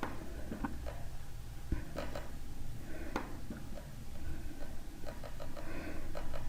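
Scattered soft clicks, like a computer mouse being clicked while chart settings are changed, over a low steady room hum.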